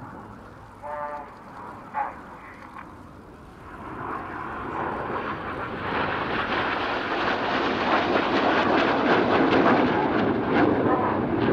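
BAE Hawk T1 jets of the Red Arrows flying past, their Rolls-Royce Turbomeca Adour turbofans building from about four seconds in to a loud rushing jet noise near the end.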